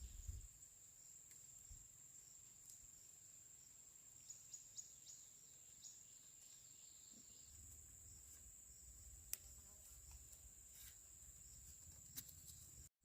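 Insects, crickets, chirring faintly in one steady high continuous tone, with a few scattered soft clicks.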